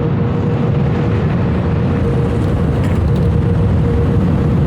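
Automatic car wash air-dryer blowers running at full power, a loud steady rush of air with a constant hum, blasting the water off the car, heard from inside the car.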